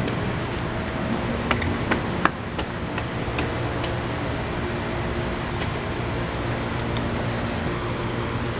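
Four short, high electronic beeps about a second apart, over a steady background noise with a low hum. A few sharp clicks come in the first two seconds.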